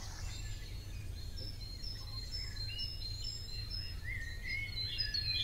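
Birds chirping: quick repeated high chirps, with a few short rising calls joining about four seconds in, over a steady low hum.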